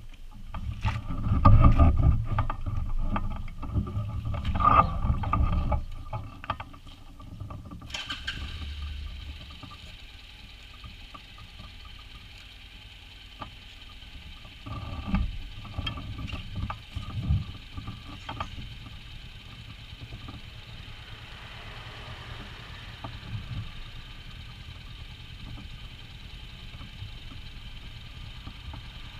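Knocks and rumbling against the foot-peg-mounted camera for the first several seconds. About eight seconds in, a steady motorcycle engine sound comes in and runs evenly at idle, with a few more knocks in the middle.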